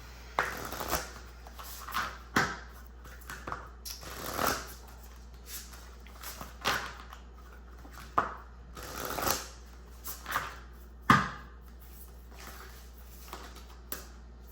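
Tarot cards being shuffled and handled: a dozen or so irregular swishes and slaps of cards, the sharpest about eleven seconds in.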